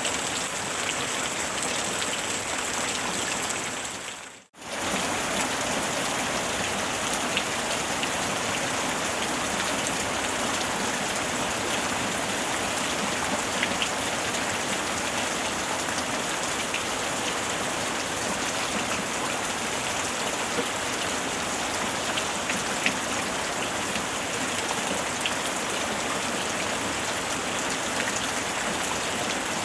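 Steady rain falling, an even dense hiss with scattered individual drops ticking. About four seconds in the sound fades briefly almost to silence and comes straight back.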